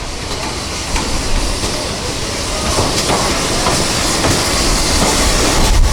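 Heritage railway train running along the track, a steady low rumble with some faint knocks, growing louder toward the end.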